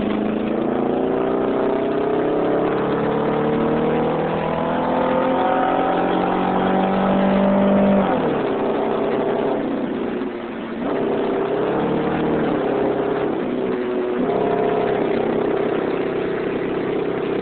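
1994 Chevrolet Cavalier's 2.2-litre four-cylinder engine accelerating at full throttle, its pitch rising for about eight seconds, then dropping sharply at a gear change and running on at a steadier pitch with smaller dips. The engine is misfiring on two cylinders because its wet spark plug wires are arcing, so it pulls slowly.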